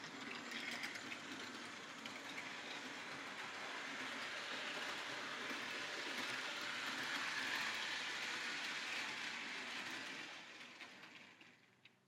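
Model 2-6-2 Prairie steam locomotive with its tender running in reverse on the track: a steady whir of the motor and wheels on the rails. It grows louder towards two-thirds of the way through, then fades out over the last two seconds.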